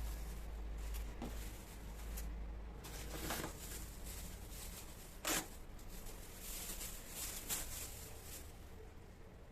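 Rustling and light handling sounds with a few short knocks, the sharpest about five seconds in, over a low steady hum.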